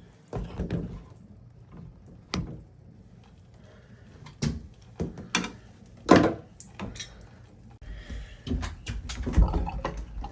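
Scattered clicks and knocks of a shower valve's parts being handled while the cartridge is dealt with. The loudest knock comes about six seconds in, and the clattering comes thicker near the end.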